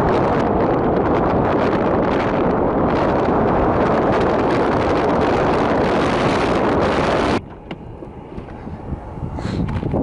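Blizzard wind buffeting the microphone, a loud steady rush that drops off suddenly about seven seconds in, leaving softer wind.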